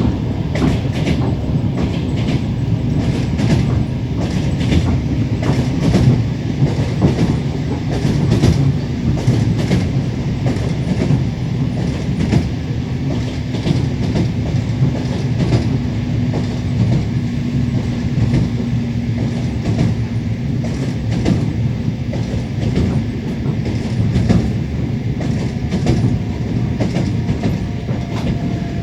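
Moving passenger train heard from inside the carriage: the wheels clack over the rail joints again and again over a steady low rumble.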